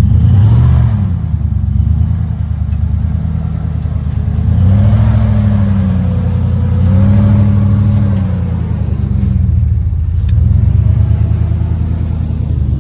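Off-road truck engine revving in repeated surges, its pitch climbing and falling about four times.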